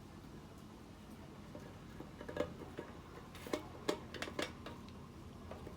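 A handful of short, light clicks and knocks, bunched together from about two seconds in to about four and a half seconds, over a faint steady hum.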